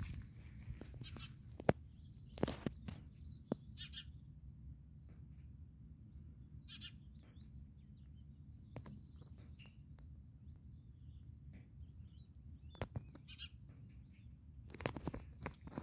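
Birds chirping faintly in short, scattered calls, over a steady low background rumble, with a few sharp clicks about two seconds in, near thirteen seconds, and near the end.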